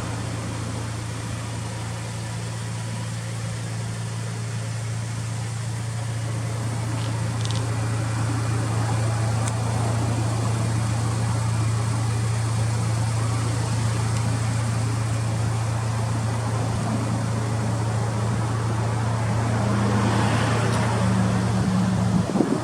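Honda Civic Type R engine running steadily through an aftermarket FEEL'S muffler, a constant low hum that grows slightly louder over the first several seconds.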